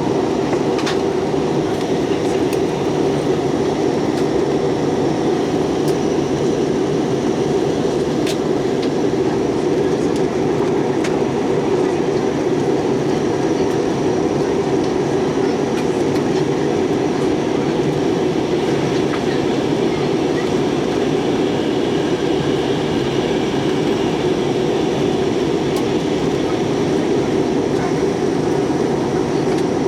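Steady cabin noise inside a jet airliner on its descent: engine and airflow rumble holding an even level, with a few faint ticks.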